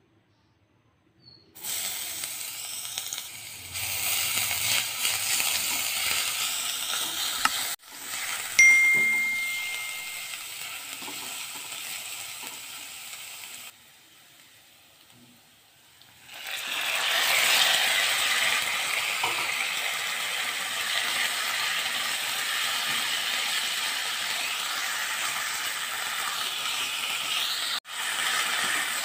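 Hot oil sizzling in a nonstick wok as chopped garlic fries, then a louder, steady sizzle once raw boneless chicken pieces are frying and being stirred in the pan. One brief ringing ding about nine seconds in, with a short quiet gap a few seconds later.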